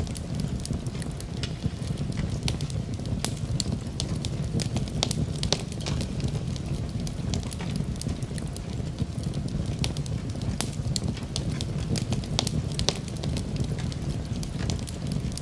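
Wood fire crackling in a fireplace, with many irregular sharp pops and snaps over a steady low rumble.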